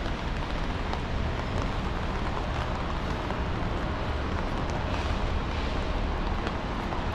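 Wet city street ambience: a steady hiss and low rumble of traffic on rain-soaked roads, with a few faint ticks.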